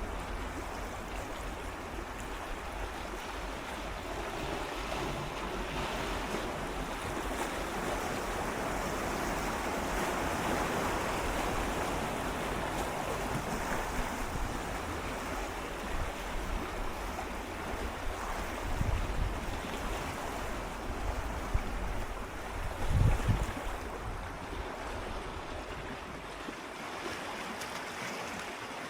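Gentle sea waves swirling and lapping against rocks close by: a steady wash that swells and eases, with a few low thumps about two-thirds through, one of them plainly louder.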